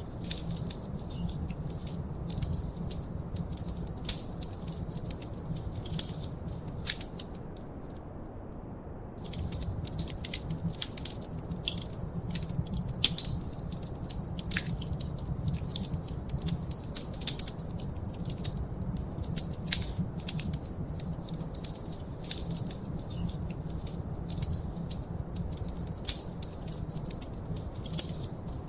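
Wood fire crackling in a fireplace: quick, irregular sharp pops and snaps over a low steady rumble. The crackling drops out for about a second roughly a third of the way in, then carries on.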